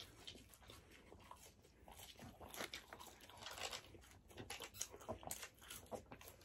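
Faint eating sounds: chewing and crunching of fast food, fries and hot wings, heard as a string of soft, irregular clicks and crunches.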